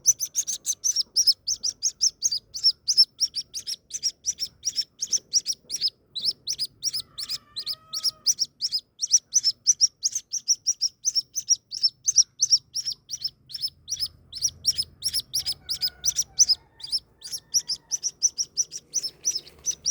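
White-breasted waterhen chick peeping continuously in short high-pitched notes, about five a second, with a brief pause about six seconds in.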